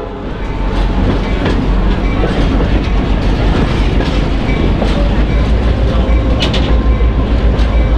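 Passenger train running along the track: a steady low rumble with scattered wheel clicks over the rail joints, and a sharper cluster of clicks about six and a half seconds in.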